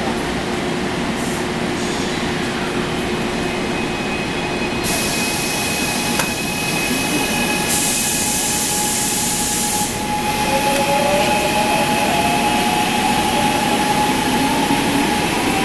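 Gwangju Metro Line 1 subway train running on the line, with a steady rumble of wheels and motors. There are loud hisses of air about five seconds in and again around eight to ten seconds, and from about ten seconds the traction motor's whine climbs in pitch as the train gathers speed.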